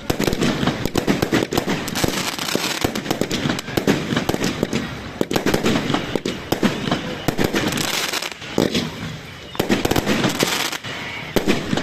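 Fireworks going off: a dense run of rapid bangs and crackling, easing off briefly a little past eight seconds in before picking up again.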